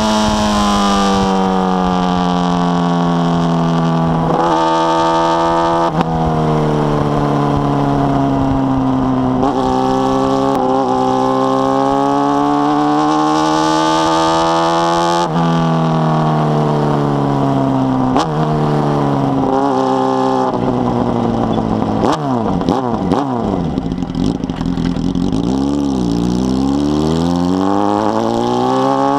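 A carbureted 2005 Honda Hornet's inline-four engine through a 4-into-1 exhaust, under way: its pitch falls and climbs with road speed and steps sharply at each gear change. About two-thirds through the revs drop low and waver, with short blips, before climbing again.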